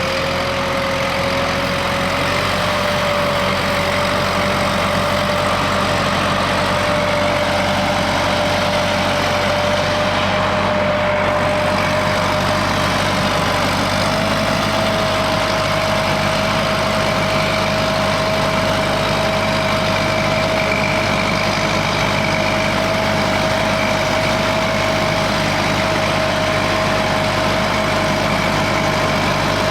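Kubota M7040 tractor's four-cylinder diesel running steadily while driving a turbine air-blast sprayer, its fan giving off a constant whine over a blowing rush of air. The whine rises a little in pitch about halfway through.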